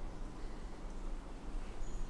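Outdoor forest ambience: a steady low rumble and hiss, with one short, high bird chirp near the end.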